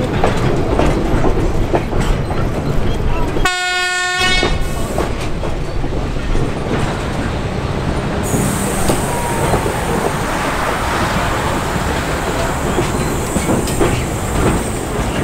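Heritage train running along the track with a steady rumble and rail clatter; about three and a half seconds in, one horn blast of about a second sounds over it.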